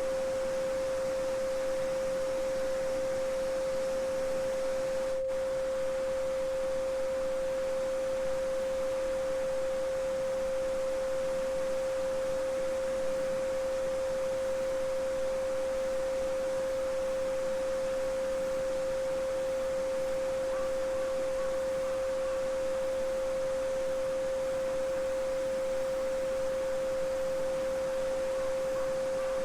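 A steady, pure 528 Hz sine tone held without change, over the even rushing of a babbling brook.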